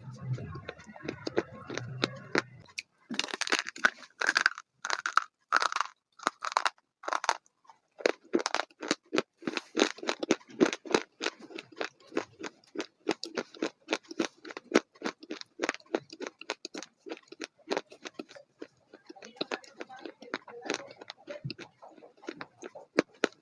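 A person biting and chewing crunchy food close to the microphone: a few loud crunching bites, then steady rhythmic chewing at about two to three crunches a second.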